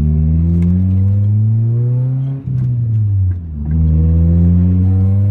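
Honda Accord's four-cylinder engine through a full stainless aftermarket exhaust, revving up under acceleration. The pitch falls away at a gear change about two and a half seconds in, then climbs again.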